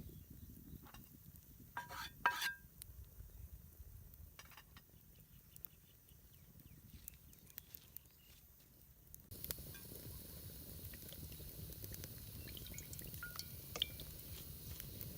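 Cookware clinking: two or three sharp, ringing metal-on-metal knocks about two seconds in, then a few fainter clicks. About nine seconds in a steady faint hiss starts, with scattered small clicks.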